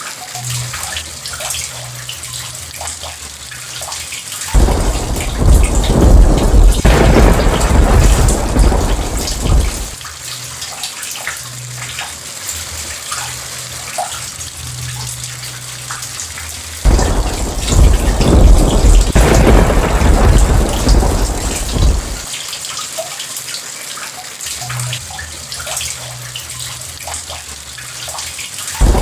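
Steady rain with scattered drops, broken by two long rolls of thunder: the first starts suddenly about four and a half seconds in and rumbles for about five seconds, the second comes about halfway through and lasts about as long.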